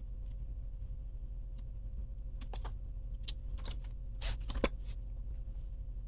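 A handful of light, sharp clicks and clinks of small parts and tools being handled on a workbench, clustered in the middle and loudest near the end of the cluster, over a steady low hum.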